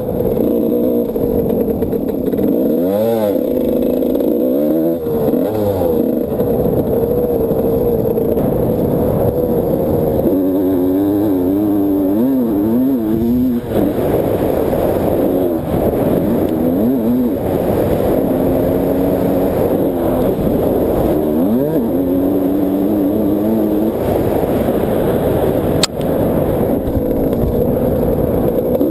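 Motocross bike engine being ridden hard, its pitch repeatedly rising under throttle and dropping on gear changes and braking. A single sharp click near the end.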